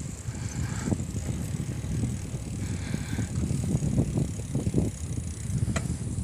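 Bicycle rolling over rough ground, tyres rumbling with frequent irregular bumps and rattles, and one sharp click near the end.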